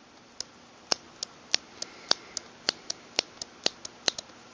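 Metal parts of a Mossberg Maverick 88 pump shotgun clicking and tapping as they are handled and fitted during reassembly: a string of sharp light clicks, unevenly spaced, about three a second.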